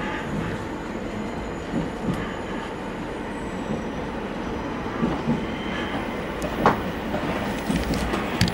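Electric commuter train running, heard from inside the front car: a steady rumble of wheels on rail, with a few sharp clicks in the second half.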